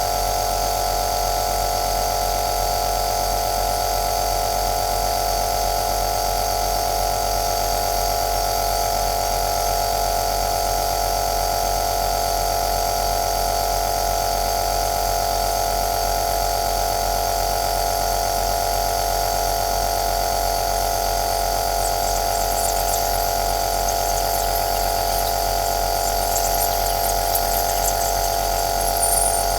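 Compressor nebuliser running steadily: a constant motor hum under a hiss of air and mist. A faint irregular high crackle joins in near the end.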